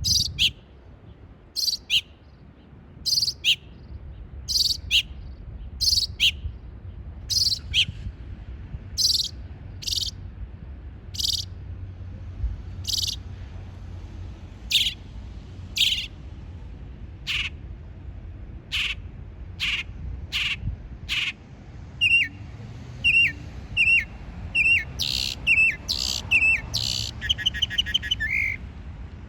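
A bird calling over and over in several different call types. It starts with sharp, high chirps, often in pairs, about one a second. These change to sharper notes reaching lower in pitch, then short downward-slurred whistles, and a rapid rattling trill near the end.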